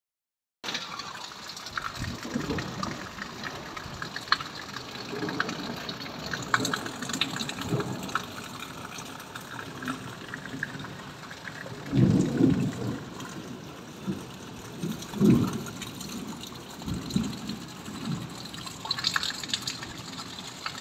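Steady rain falling on a wet tiled rooftop, with many scattered drop ticks. A few louder low rumbles come around the middle and later.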